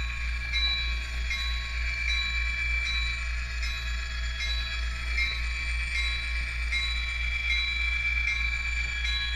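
Model train locomotive running along the layout track: a steady low hum with a faint, regular ticking, a little more than one tick a second.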